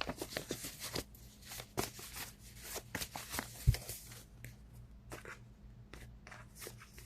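A deck of tarot cards being shuffled by hand: a stream of quick, irregular card snaps and flutters, with one soft thump in the middle.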